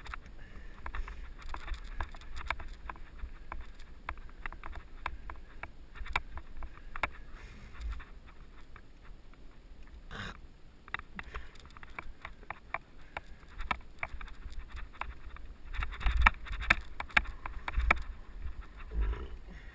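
Mountain bike clattering and rattling over a rough dirt trail, picked up by a helmet-mounted camera: a run of sharp knocks and clicks over a low wind rumble on the microphone. The knocks come thicker and louder a few seconds before the end.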